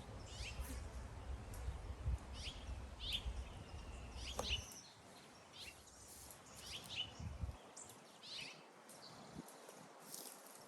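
Small birds chirping, with many short, repeated high calls. A low rumble underneath stops a little under halfway through.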